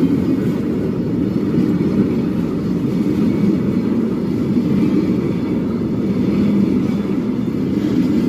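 Steady low rumble of a freight train of railway tank wagons rolling by.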